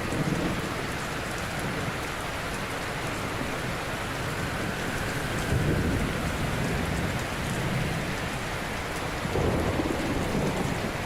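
Ocean surf washing in steadily, with low surges of breaking waves about six seconds in and again near the end.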